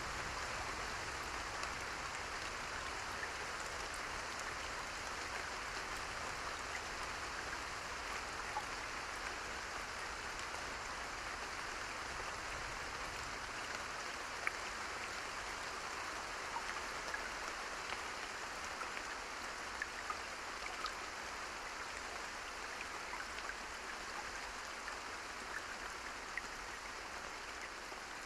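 Steady rain falling, with scattered sharp ticks of individual drops over an even hiss.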